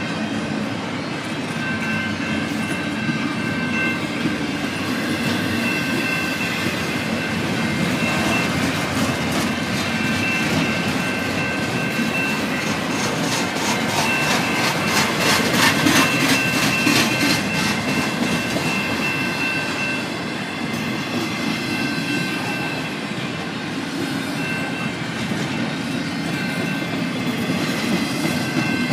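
Canadian Pacific double-stack container train rolling past: a steady rumble of steel wheels on rail, with thin high squealing tones that come and go. About halfway through there is a run of rapid, evenly spaced clicking as the wheels cross rail joints.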